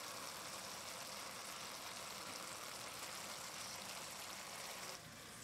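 Purple cabbage with peppers and onions sizzling in a pot, a steady hiss.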